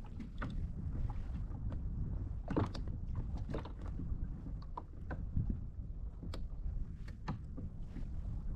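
Sea water lapping and splashing against a kayak's hull over a low rumble of wind on the microphone, with irregular small clicks and slaps.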